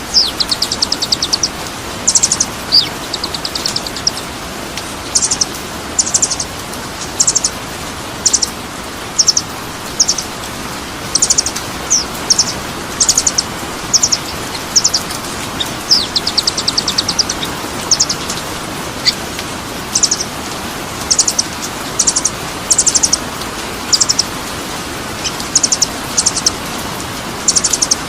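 A small songbird singing short, high, rapidly pulsed trill phrases, roughly one a second, over a steady hiss.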